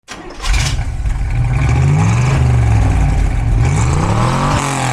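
Car engine revving: a deep running note that swings up and down in pitch several times.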